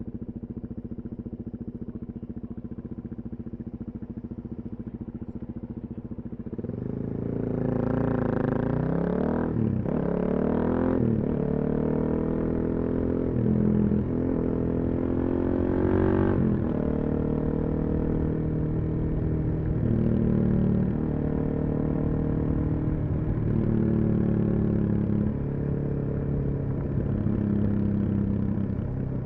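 Suzuki DR-Z400SM single-cylinder four-stroke engine through a full Yoshimura exhaust. It runs steady and low at first, then about six seconds in opens up and accelerates through a few upshifts, each a rising note that drops at the shift. After that it cruises, with the throttle rolling on and off.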